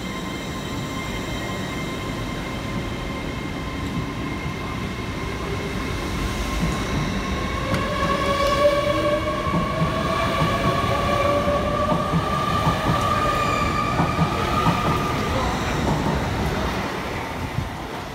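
LNER Azuma train pulling away along the platform and gathering speed: a low rumble of the wheels on the rails with a whine from the traction motors rising slowly in pitch. It is loudest in the middle and fades near the end as the train draws away.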